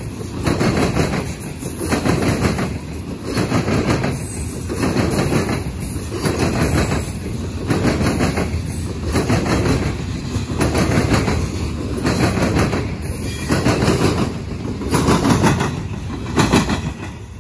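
Loaded coal hopper cars of a freight train rolling past, their wheels clacking over the rail joints in a steady rhythm of about one clatter a second. The sound drops away as the last car goes by near the end.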